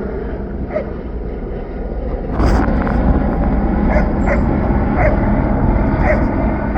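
A police K-9 dog barking in single barks about a second apart, over a steady background rumble. The rumble grows louder with a sharp burst about two and a half seconds in.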